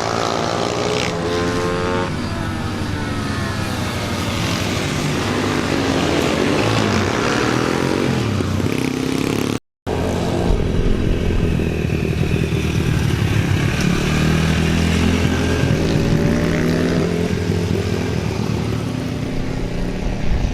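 Small single-cylinder pit bike engines running and revving, the pitch rising and falling. The sound cuts out completely for a moment about halfway through.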